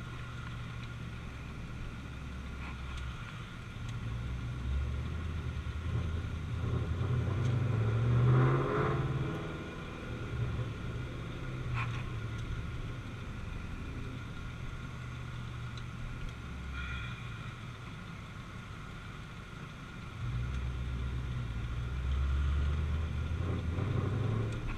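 Straight-piped Ford Mustang GT V8 exhaust under way, a low steady drone that steps up and down with the throttle. It swells to a louder rev about eight seconds in and picks up again near the end.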